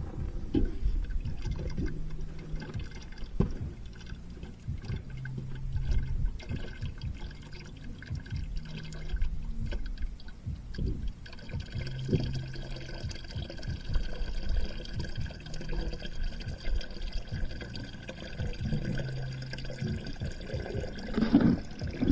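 Water that flooded a 2.9 V6 engine pouring out of it into a 5-gallon bucket, a steady splashing pour as the bucket nears full.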